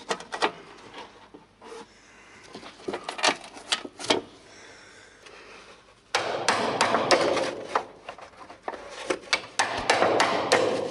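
Hammer tapping on a screwdriver to drive a rusted handbrake cable stop out of its welded cylinder in the car's chassis. There are scattered single knocks at first, then a faster, louder run of strikes from about halfway.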